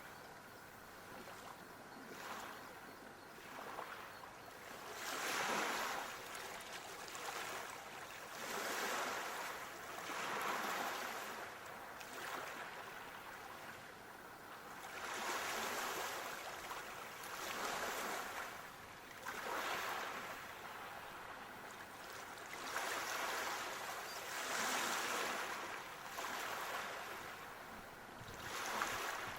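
Ocean waves washing onto a shore, a steady hiss of surf that swells and fades every few seconds.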